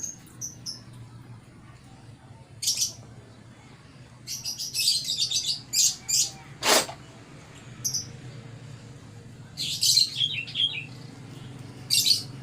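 A small songbird chirping in short, high-pitched bursts, with a rapid run of chirps in the middle and one quick falling whistle, over a faint steady low hum.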